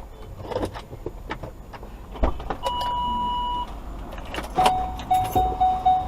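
Electronic warning beeps inside a car: one steady beep lasting about a second, then about a second later a quick run of repeated beeps at a slightly lower pitch, over scattered clicks and rattles in the cabin.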